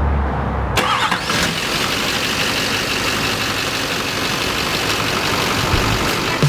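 2010 GMC Sierra HD's 6.6-litre Duramax turbo-diesel V8 running steadily, with a sudden change in its sound about a second in.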